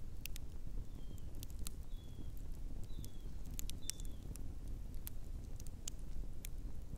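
Scattered sharp clicks and crackles over a steady low rumble, with four short, high, slightly falling chirps about a second apart, like a small bird calling.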